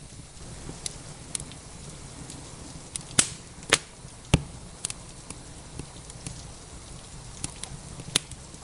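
Wood fire crackling in a fireplace: scattered sharp pops and snaps, three loud ones close together near the middle, over a steady hiss of rain.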